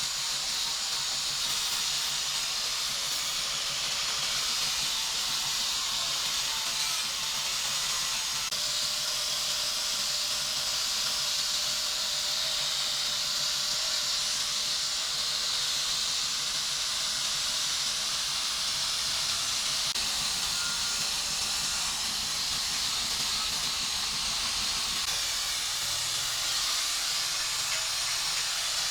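A high, steady hiss that holds at an even level without a break.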